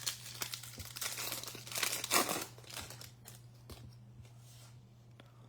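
Foil wrapper of a pack of baseball trading cards crinkling and tearing as it is opened, loudest about two seconds in, then dying away to faint handling.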